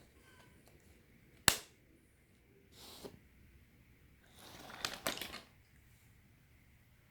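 Small die-cast toy cars being loaded into a plastic toy car-hauler: one sharp plastic click, then scraping and rattling as the cars slide against the plastic, with a couple more clicks.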